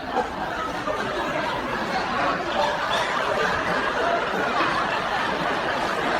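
Several people laughing together without let-up, growing a little louder toward the end.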